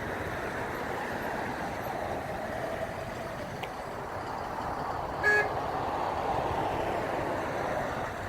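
A single short car horn toot a little over five seconds in, over a steady background of passing road traffic.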